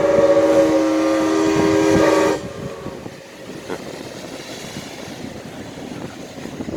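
A boat's horn sounds a steady chord of several notes and cuts off sharply about two and a half seconds in. A quieter, even background noise follows.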